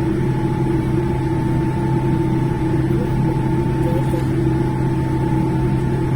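Steady hum and rush inside a Boeing 787-10 airliner cabin with the engines running, several constant droning tones over an even whoosh of air, holding the same pitch throughout.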